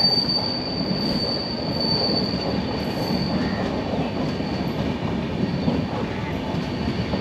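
Indian Railways train running along the track: a steady rumble of wheels on rails with a thin, high wheel squeal that fades about halfway through.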